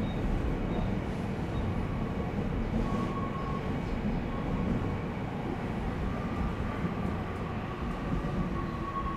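Odakyu electric commuter train running at speed, a steady rail rumble with a thin high tone that comes and goes over it.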